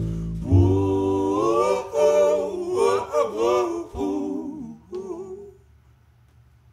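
Voices singing a wordless vocal harmony with long held notes, dying away about five seconds in as the song ends.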